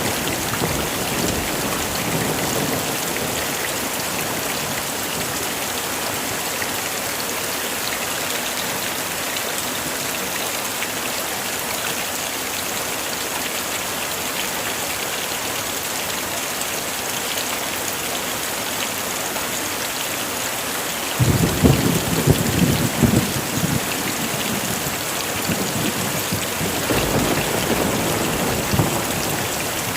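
Heavy rain falling steadily. About two-thirds of the way in, thunder breaks in suddenly and rumbles for a few seconds, with fainter rumbling again near the end.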